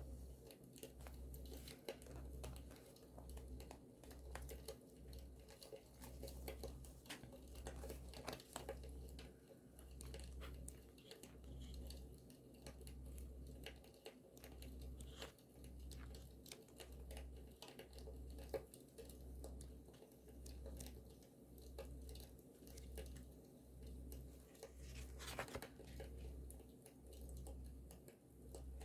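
Faint paper handling at a journaling desk, crinkling and tearing, over a campfire track with scattered crackles and pops. Beneath it a low rumble swells and fades about once a second.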